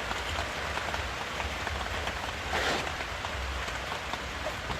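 Steady heavy rain falling, with a brief louder hiss about two and a half seconds in.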